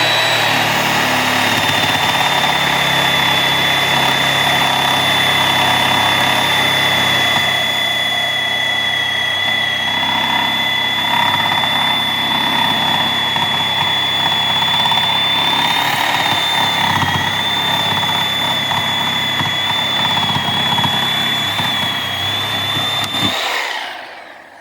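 Power saw running continuously, cutting through the wooden timber of a play set, with a steady high motor whine; it stops abruptly near the end.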